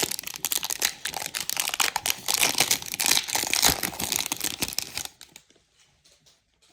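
A foil trading-card pack wrapper being torn open and crinkled in the hands, a dense crackling that stops about five seconds in.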